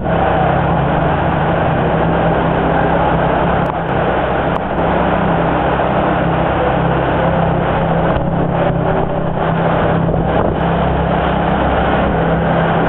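Lamborghini Gallardo's V10 engine idling steadily as the car creeps into a garage bay and stops.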